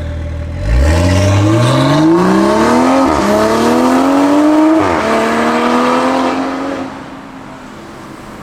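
Toyota Supra A90's 3.0-litre B58 turbocharged inline-six, through a 200-cell sport downpipe and TRD cat-back exhaust, accelerating hard: the exhaust note climbs in pitch, drops twice at upshifts, then grows quieter near the end.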